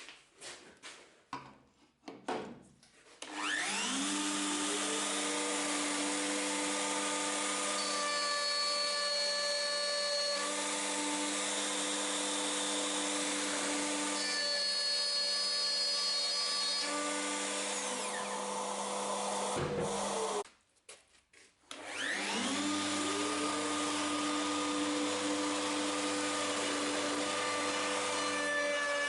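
Electric wood router spinning up and running at steady speed while milling slots in a plywood base plate through a routing template. Its sound changes twice as it runs, then it is switched off and winds down about twenty seconds in. It starts up again a couple of seconds later. A few light knocks come before the first start-up.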